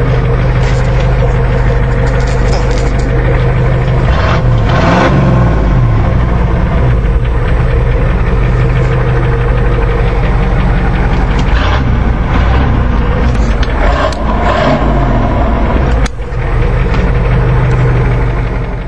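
Ford 7.3L IDI V8 diesel idling loud and steady through a straight-pipe exhaust with diesel knock, freshly started from cold. Its pitch wavers briefly twice.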